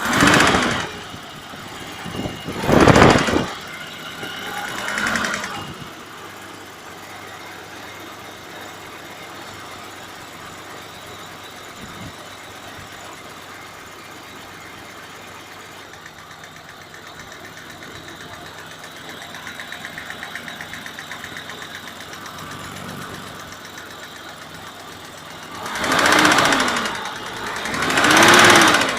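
BMW M20 straight-six engine idling with a knock, revved briefly three times in the first few seconds and twice near the end.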